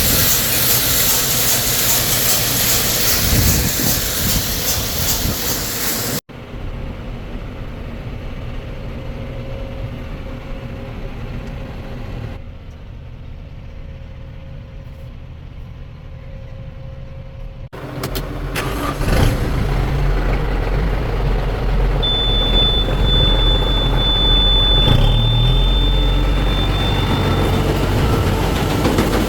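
Farm machinery engines running in several cut-together clips: a loud steady noise at first, quieter machine running in the middle, then a heavier low engine rumble. A steady high tone sounds for about five seconds near the end.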